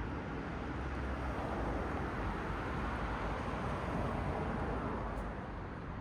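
Cars passing on a road: a steady rumble of tyre noise that swells as a car goes by through the middle, then eases off.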